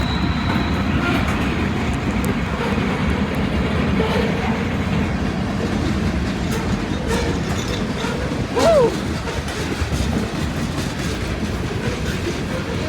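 A freight train rolling past: a steady low rumble of cars with faint clickety-clack from the wheels on rail joints. About two thirds of the way through, a brief pitched wail rises and falls.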